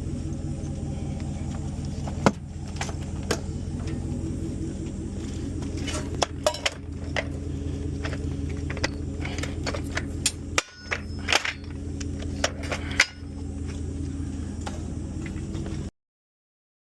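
A steady low motor hum with a dozen or so sharp clicks and knocks scattered through it, the loudest about two seconds in and near the thirteen-second mark. The sound cuts off suddenly about a second before the end.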